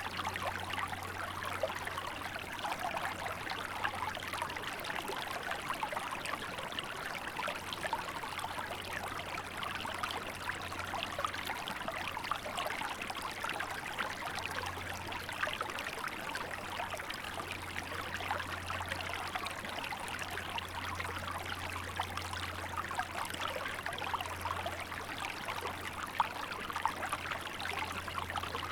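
Small river flowing, a steady babble and trickle of running water.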